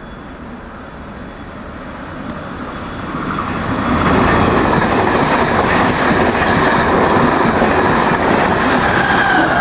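Irish Rail Mark 4 intercity train, with a 201 class diesel-electric locomotive at the rear, approaching and running through at speed. The wheel-on-rail rumble grows over the first four seconds, then stays loud as the carriages rush past, with a steady high whine above it.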